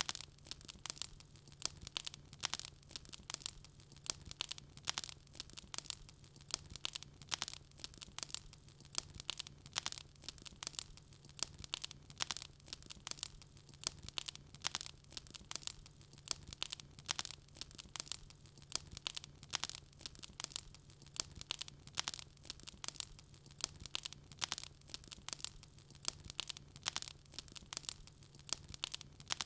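Wood fire crackling and popping in a fireplace: a constant stream of sharp, irregular crackles, with a faint steady low hum underneath.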